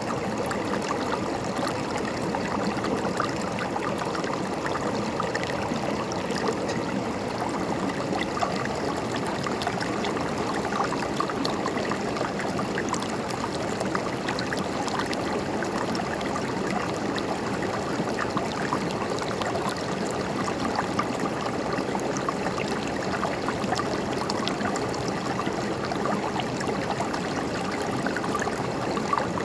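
River water flowing over stones, a steady rushing and gurgling with many small splashes.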